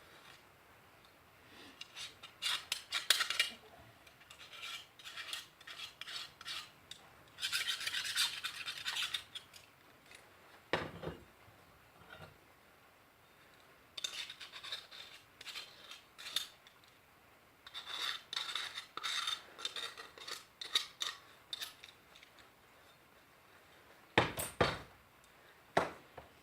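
Paint softened by stripper being scraped and rubbed off the metal body of an old Elna SZ 120/125 grinder by hand. The strokes come in irregular scratchy runs with pauses between them, and there are a couple of duller knocks.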